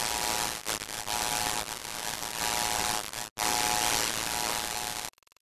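Loud hiss of static with a faint steady hum in it. It drops out for an instant about three seconds in and cuts off abruptly about five seconds in.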